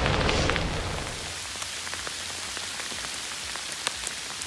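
Rain mixed with small hail falling: a steady hiss with many small sharp ticks of pellets striking, a little louder in the first second.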